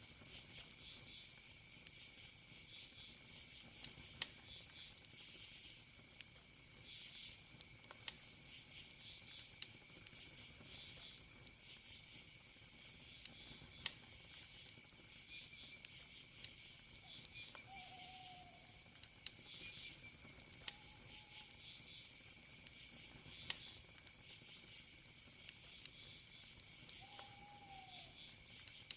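Crickets chirping in repeated pulsed groups over a steady high insect trill, with sharp single pops from a crackling wood campfire every few seconds. Three short faint calls sound in the second half.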